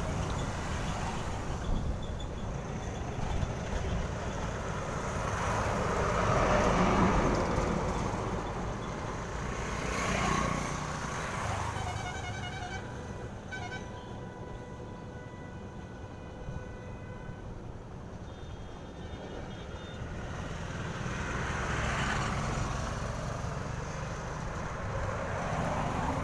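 Heavy trucks passing one after another on a road, each engine and tyre noise swelling up and fading away. Midway a truck horn sounds with several steady tones for a few seconds, warbling at first.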